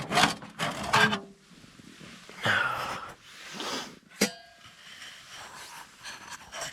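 Rustling and handling noises as a person moves about inside a tent, with one sharp metallic clink about four seconds in.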